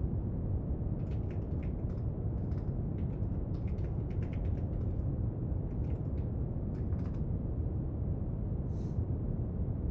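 Steady brown noise, an even low hiss, with a scatter of small desk clicks and taps from study work, thick from about one second to seven seconds in and one more near the end.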